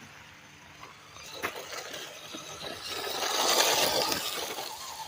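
WLtoys 104001 1/10-scale RC car running past: a rush of motor and tyre noise that swells and fades around the middle, after a single sharp click about a second and a half in.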